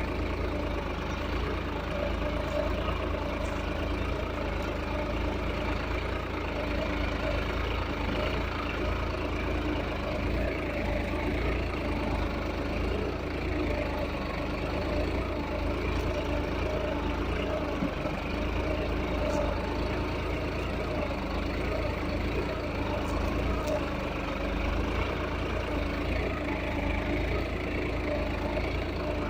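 Solis tractor's diesel engine running steadily.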